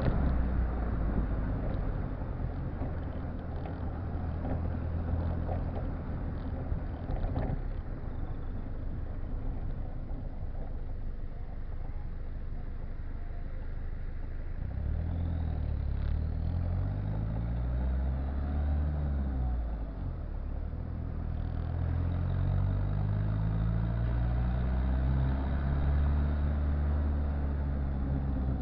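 Exhaust note of a Citroën Visa's swapped-in XUD7TE turbodiesel engine, holding a steady low speed for the first half. From about halfway on the revs rise and fall several times.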